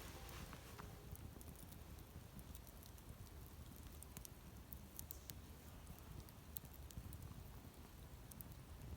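Wood campfire burning quietly, with sparse sharp crackles and pops at irregular intervals over a faint low rumble.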